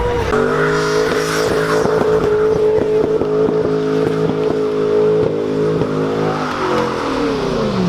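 Car engine held at steady high revs, broken by short regular cuts, then the revs falling away steadily near the end.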